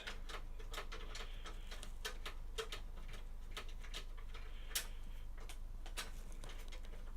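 Faint, irregular small clicks and ticks of a screwdriver backing out the screws of a PC case's expansion slot covers, with one sharper click about five seconds in, over a steady low hum.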